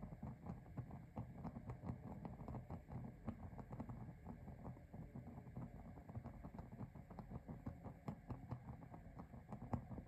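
Fire in a mini fireplace crackling: a dense, irregular run of small pops, with one sharper pop near the end.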